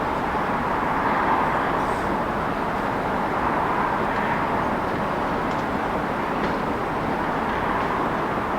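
Steady rush of city vehicle noise, swelling slightly about a second in and again around four seconds.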